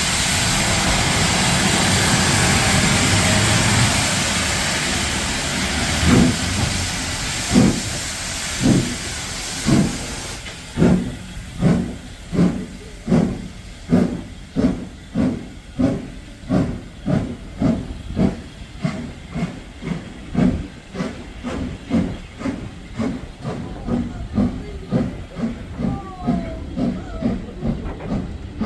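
NCB 0-6-0 tank steam locomotive getting under way: a loud steady hiss of steam, then exhaust chuffs begin about six seconds in, slow at first and gradually quickening as the engine gathers speed, while the hiss dies away about ten seconds in.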